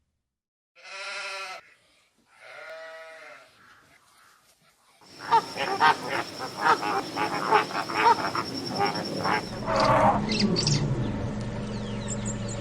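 Two short, wavering animal calls, like bleats, about a second apart, followed from about five seconds in by a busier stretch of rapid clicks and noise over a steady hum.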